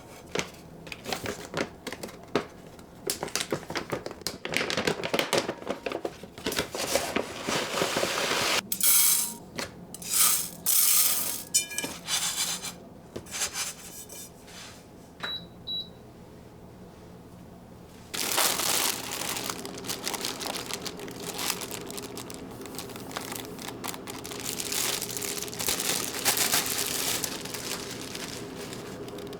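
Kitchen handling sounds: a long run of clicks, clinks and crinkling. Two short high tones come about halfway. From about two-thirds of the way in there is a steady low hum with more rustling over it.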